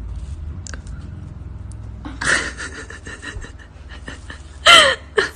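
A dog panting, with a short, loud cry that falls in pitch near the end.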